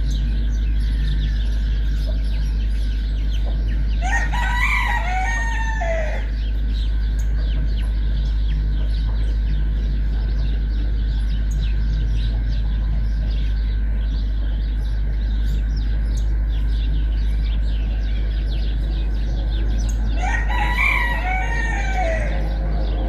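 A rooster crowing twice, each crow about two seconds long and some sixteen seconds apart, over a steady low hum.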